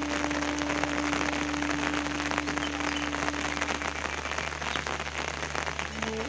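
Steady rain falling, a dense patter of drops on surfaces, with a single steady tone held through the first four seconds or so.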